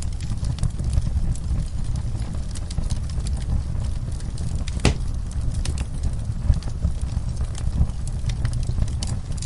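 Wood fire crackling in a fireplace: irregular small pops and snaps over a steady low rumble, with one sharper pop about five seconds in.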